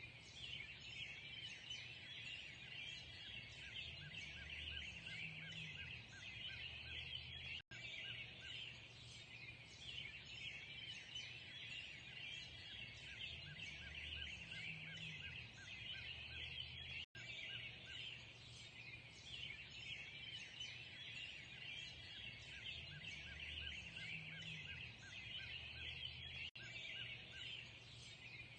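Dense chorus of many birds chirping and singing at once, a constant chatter with no single song standing out, over a low background hum. The sound cuts out for an instant three times, about every nine and a half seconds, where the same stretch of recording repeats.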